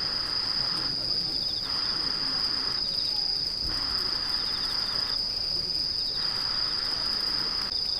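Night insects: a steady, high-pitched cricket trill, with a second, lower insect buzz that starts and stops in four bouts of about a second or so each.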